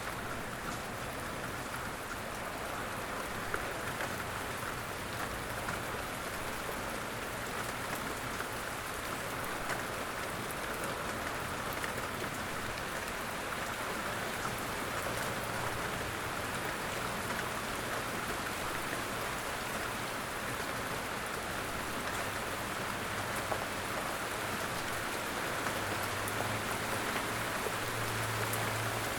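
Steady light rain falling in woodland, an even hiss with scattered drop ticks. A low rumble swells faintly near the end.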